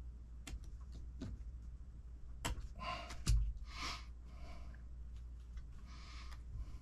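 Small clicks and a single louder knock from small kit parts and tools being handled on a workbench, with a few short breaths between them.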